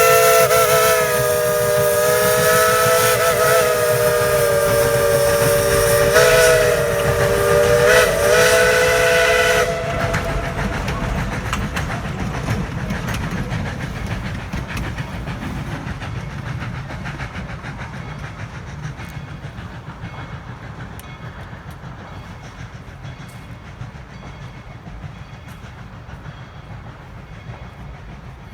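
Steam locomotive whistle blowing a long chord of several tones, its pitch wavering a little as it is worked, then cutting off about ten seconds in. The train's running rumble and rail clicks carry on, slowly fading as it moves away.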